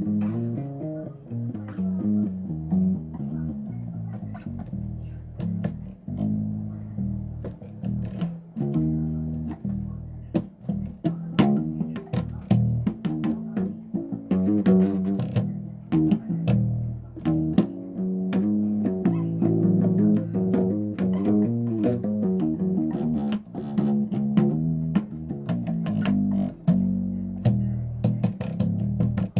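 Electric bass guitar playing a continuous run of plucked notes, with many sharp attacks.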